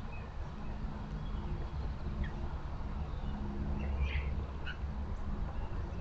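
A steady low rumble with a faint hum running through it, and a few faint, short bird chirps about two, four and nearly five seconds in.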